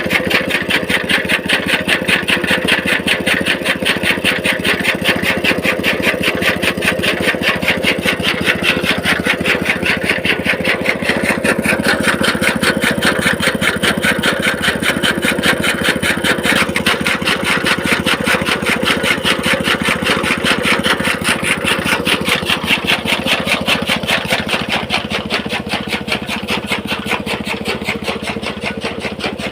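Petrol engine of a toka fodder-cutting machine running steadily, with a fast, even beat.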